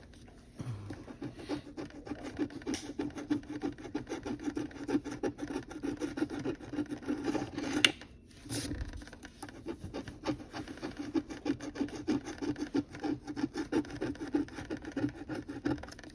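Rapid scraping strokes rubbing the scratch-off coating from an instant lottery ticket, stopping briefly after a sharp tick about eight seconds in, then carrying on.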